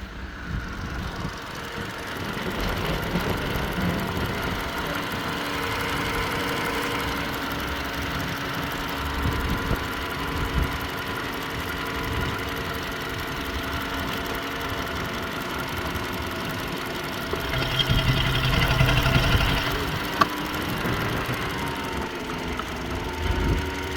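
Mini Cooper R56's 1.4-litre N12B14A four-cylinder petrol engine running at idle on a test run, getting briefly louder about three-quarters of the way through.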